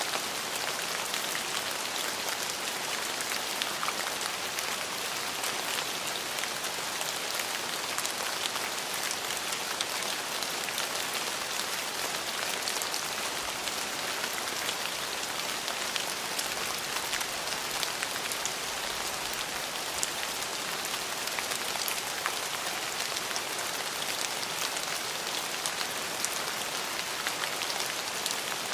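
Steady, heavy rain falling on a surface, an even hiss with many individual drops ticking through it.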